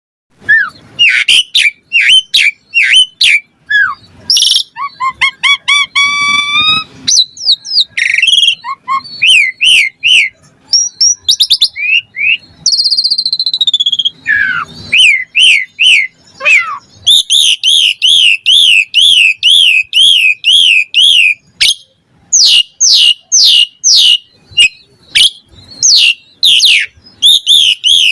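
Asian pied starling (jalak suren) singing a loud, varied song of whistles, chirps and harsher notes. About two-thirds of the way through it breaks into a fast run of repeated rising-and-falling whistles.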